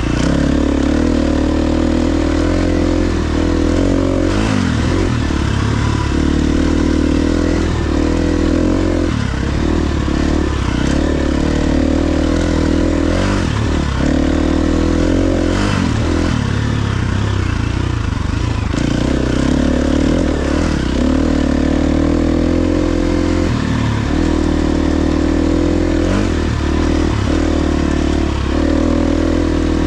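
KTM 350 XC-F dirt bike's single-cylinder four-stroke engine running under way, its pitch rising and falling with the throttle and dropping off briefly several times as the throttle is rolled off, with a longer lull about 17 seconds in.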